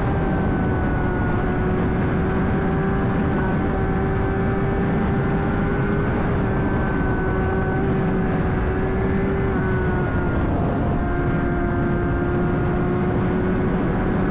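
Honda CBR600RR's inline-four engine running at a steady pitch while cruising, with wind and road rumble. The pitch dips slightly about ten seconds in.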